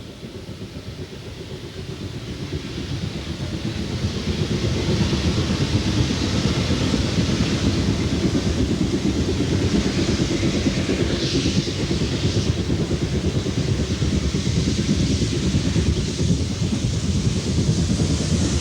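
Steam locomotive working a train, growing louder over the first few seconds as it approaches and then running steadily close by. A brief hiss comes about eleven seconds in.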